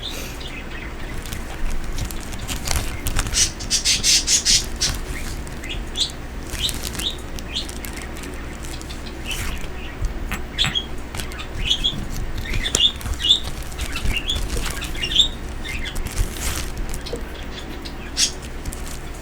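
Pet birds chirping in short repeated calls, most often in the second half, with a burst of rustling, like wing flapping, about three to five seconds in.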